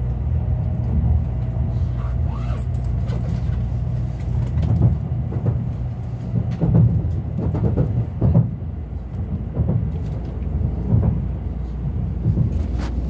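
Sanyo Shinkansen train with a steady low rumble, and irregular knocks and clicks through the middle.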